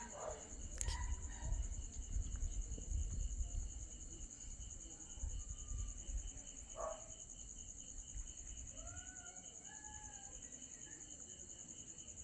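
Night insect chorus trilling steadily in two high, finely pulsing tones, with a low rumble underneath during the first half and a few faint short gliding calls near the end.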